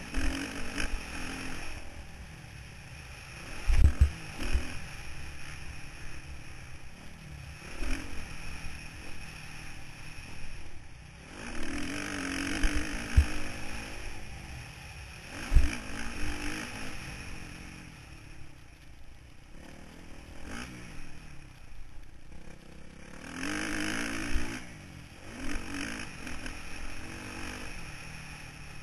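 Motocross bike engine heard from a camera mounted on the bike, revving up and dropping off in repeated surges as it is ridden round the track. Sharp thumps break in about 4, 13 and 15 seconds in.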